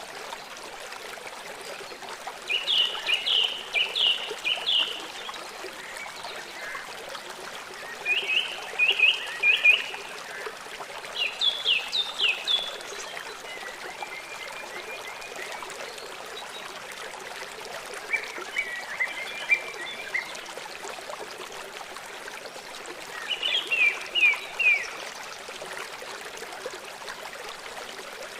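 A small songbird chirping in short phrases of quick, repeated high notes, six phrases a few seconds apart, over the steady sound of running water.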